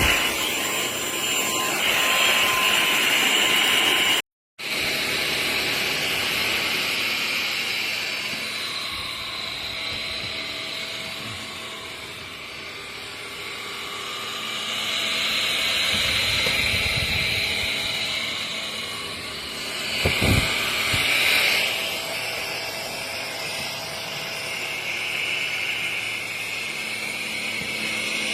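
Cordless stick vacuum cleaner running steadily, a high whine over a rush of air, growing louder and softer as it works. The sound cuts out completely for an instant a few seconds in, and there is a brief low thud about twenty seconds in.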